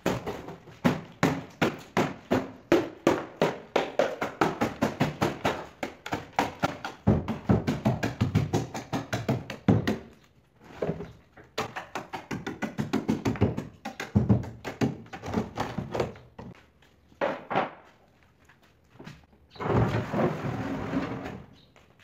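Hammer driving nails into wood: a fast run of sharp blows, about four a second, then shorter bursts of blows with pauses between them. Near the end comes a couple of seconds of continuous rasping noise.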